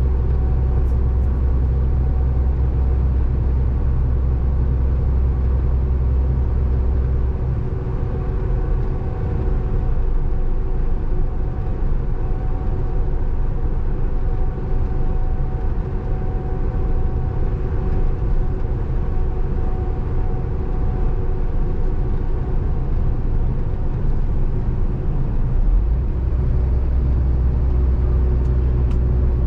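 Scania 450 truck's six-cylinder diesel engine running, heard from inside the cab. It is a steady drone with a deep low rumble that falls away about a quarter of the way in and comes back near the end.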